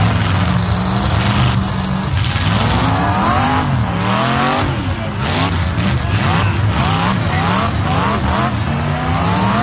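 Several full-size demolition derby cars' engines running hard, revving up and down over one another.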